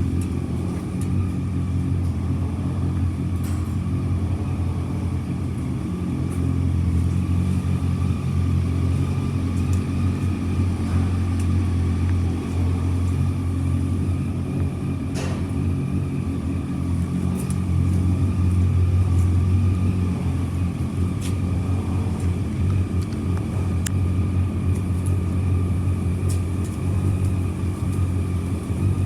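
Kawasaki W650's air-cooled parallel-twin engine idling steadily, with slight rises and falls in its note.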